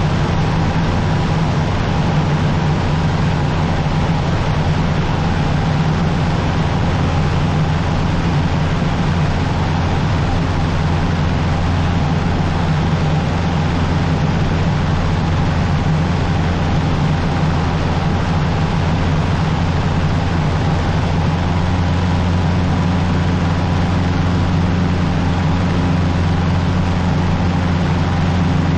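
Cessna 150's Continental O-200 four-cylinder engine and propeller droning steadily in cruise, heard from inside the cockpit with a constant rush of airflow noise.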